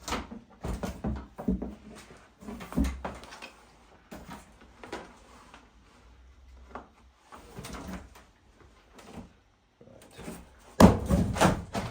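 Cardboard box and packaging being handled during unboxing: irregular rustles, scrapes and light knocks, with a louder bout of handling near the end.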